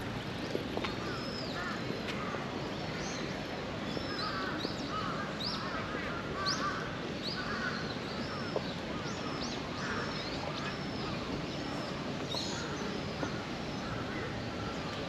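Birds calling in the trees: many short, high, arching chirps repeated every second or so, with lower chattering calls between them, over a steady background hiss.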